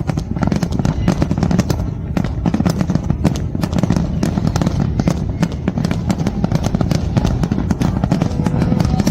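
Fireworks going off in rapid succession: a dense, continuous crackle of many sharp pops over a steady low rumble.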